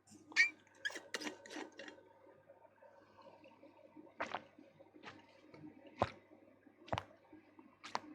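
Faint, scattered short clicks and taps: a quick run of them in the first two seconds, then single sharp ones about once a second in the second half, over faint background hum.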